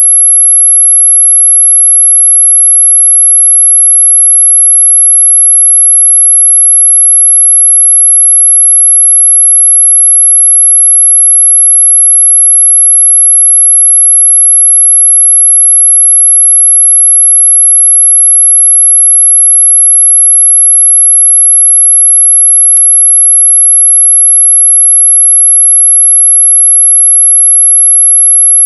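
A single steady, very high-pitched electronic sine tone, loud and unchanging. It is played as a mosquito-repelling 'ultrasonic' sound, though it sits within hearing range rather than above it.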